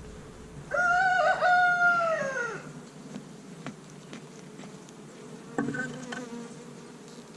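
Honeybees buzzing steadily around an opened hive. A rooster crows once, starting about a second in and lasting about two seconds, its pitch falling off at the end; this is the loudest sound. A shorter bird call follows near the six-second mark.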